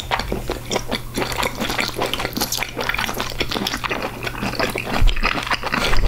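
Close-miked wet chewing of a mouthful of raw blood clam sashimi: soft, irregular squelching and smacking mouth sounds, with a low thump about five seconds in.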